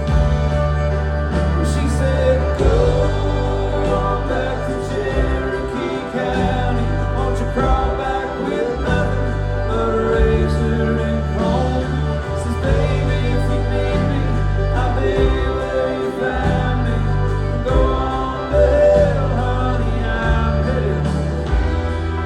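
A country band playing live, with a lead vocal over guitars, bass and drums.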